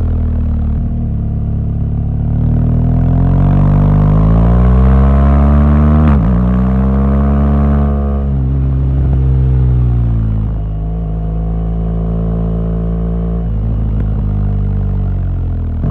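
BMW R1200GS motorcycle's boxer twin engine accelerating, rising in pitch, with a quick drop in revs about six seconds in as it shifts up, then pulling again before easing off and falling in pitch. It holds steady for a few seconds and drops off again near the end.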